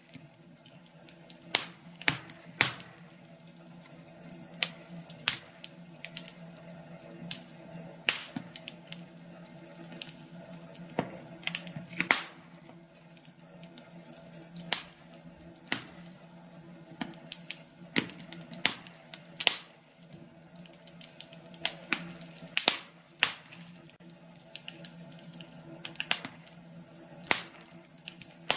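Wood fire crackling, with irregular sharp pops and snaps of burning logs over a low steady hum.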